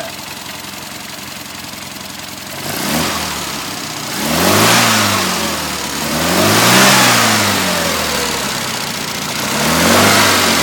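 Mini Cooper S 970cc four-cylinder A-series engine running out of the car on the floor: a steady idle, then blipped four times, each rev rising and falling back to idle.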